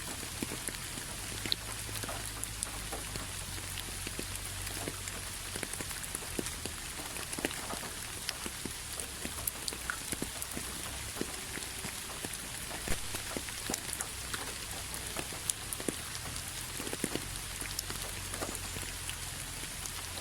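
Steady rain falling, an even hiss with many individual drops striking clearly and irregularly on top.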